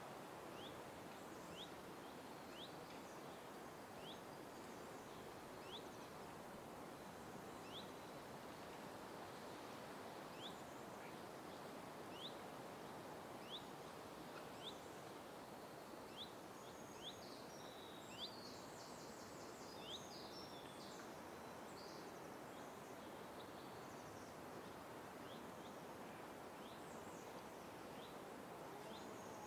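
Small birds calling: a short rising chirp repeated about once a second, with bursts of higher, busier twittering song in the second half, over a steady faint background hiss.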